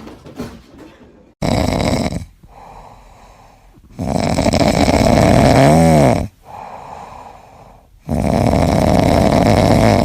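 Loud snoring: three long breaths about four seconds apart, the middle one ending in a short rising-and-falling whistle.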